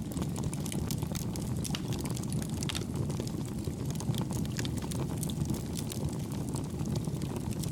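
Campfire burning: a steady low rumble of flames with frequent small crackles and pops.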